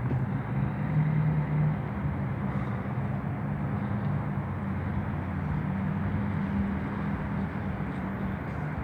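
Steady road traffic noise with the low, even hum of a running vehicle engine.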